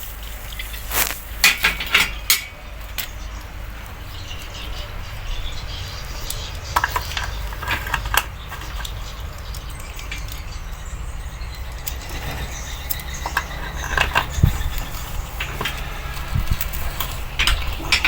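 Scattered metallic clinks and knocks, as of tools or metal parts being handled. There is a cluster about one to two and a half seconds in and more toward the end, over a steady low rumble.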